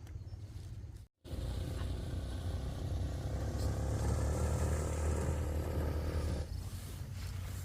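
A motor vehicle engine running steadily with a low rumble. The sound cuts out for a moment about a second in, comes back louder, and eases a little near the end.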